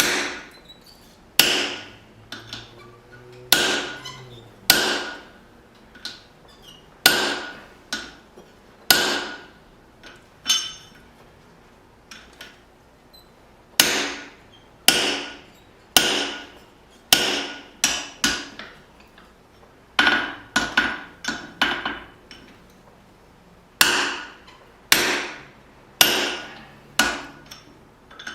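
Hammer blows driving a steel drift through hot steel to punch out the eye of a small hatchet, a strike about once a second with lighter taps between, each blow ringing briefly, with a short pause about ten seconds in.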